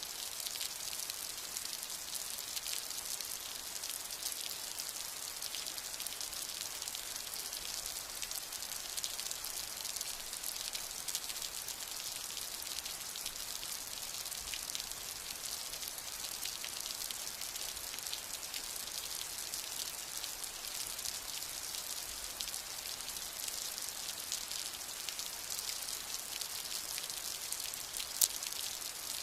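Steady rainfall: an even hiss of rain with many fine drop ticks throughout and one sharper drop hit near the end. No thunder is heard.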